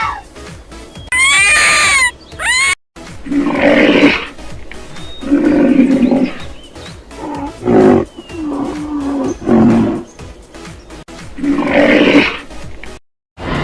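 Lion roaring: a series of about six long, deep roars. A brief high-pitched call from another animal comes just before them.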